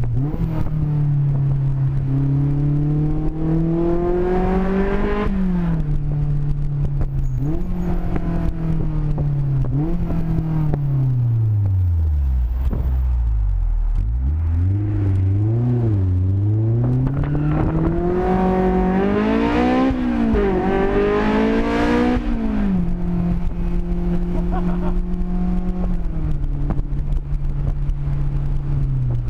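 Honda S2000's four-cylinder engine running through an open header with no muffling, heard onboard: it pulls up in pitch over the first five seconds, drops back in steps, sinks almost to idle around the middle, is blipped up and down a few times, climbs again to a peak about 22 seconds in, then holds a steady cruise.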